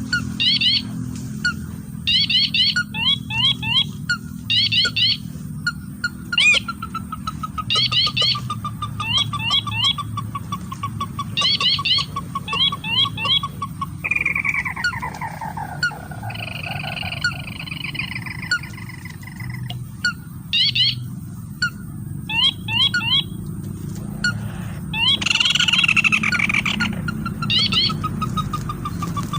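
Bird calls: repeated bursts of quick, high chirps in groups of three or four, a long, slowly falling trill, and a few falling squeaky calls, over a steady low hum.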